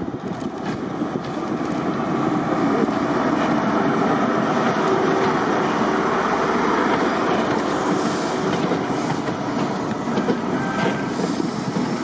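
Diesel-hauled train passing close by: locomotive engine running under power with the rumble of wheels on the rails, growing louder over the first few seconds and then staying loud and steady.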